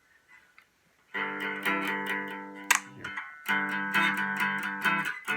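Epiphone Les Paul Special electric guitar on its neck pickup, played through a Vox AC4TV amp with a Klon Centaur clone pedal set as a clean boost, playing picked chords. It starts about a second in, with a short break and a new chord a little after the middle.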